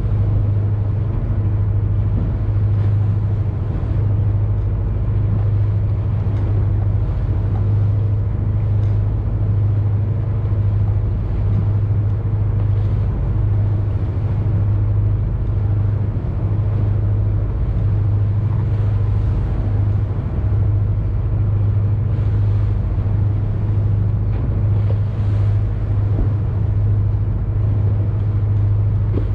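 A boat's engine running steadily on board, a low, even drone.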